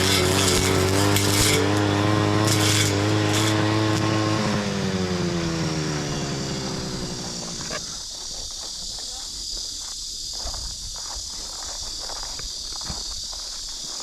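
Small engine of a brush cutter running steadily, then slowing in pitch from about five seconds in and dying away about three seconds later as it is shut off. Insects chirr steadily behind it.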